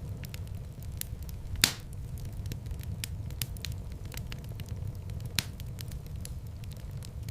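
Wood fire crackling in a fireplace: a dense stream of small clicks over a low steady rumble. One loud pop comes about one and a half seconds in, and a smaller one about five seconds in.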